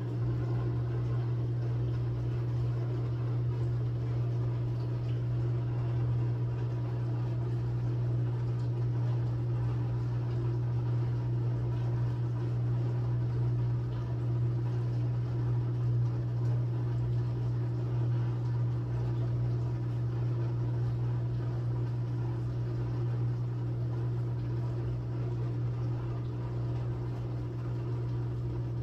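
Steady low mechanical hum that does not change, like a motor or appliance running.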